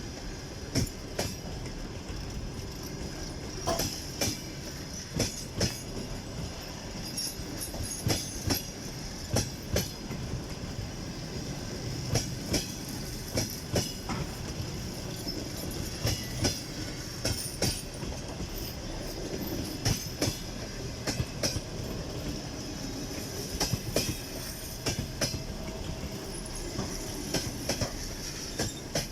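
Passenger train coaches rolling past, wheels clacking over rail joints in quick pairs of knocks over a steady rumble, with a thin high wheel squeal running under it.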